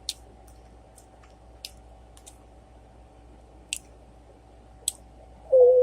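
A person chewing food close to the microphone, with about eight sharp, wet mouth clicks and smacks at irregular gaps. Near the end a loud voiced "ooh" begins.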